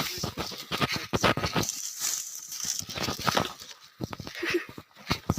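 Dry twigs, branches and forest litter crunching and crackling irregularly as firewood is dragged through undergrowth, with several sharper cracks.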